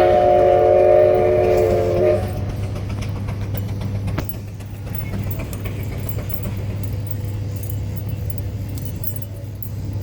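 A multi-note whistle sounds a steady chord and cuts off about two seconds in, over the steady low drone of a running engine. A single knock comes about four seconds in.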